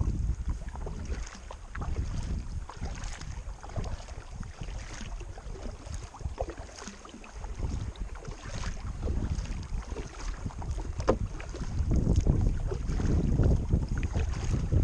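Kayak paddling on a river: the paddle blades splash and drip in the water, with wind rumbling on the microphone, the wind growing stronger near the end.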